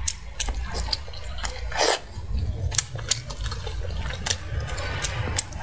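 Close-miked wet eating sounds of braised pork leg: sticky, squelching chewing with many small clicks, and a brief louder wet burst about two seconds in. Near the end, the tender meat is pulled apart with plastic-gloved hands.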